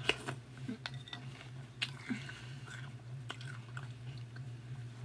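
A mouthful of milk-soaked Froot Loops cereal being chewed close to the microphone, with a few short crunchy clicks scattered through it. A steady low hum runs underneath.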